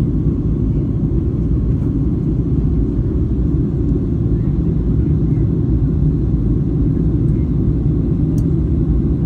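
Steady low rumble of a Boeing 737-800 heard from inside the passenger cabin: engine and airflow noise, unchanging throughout.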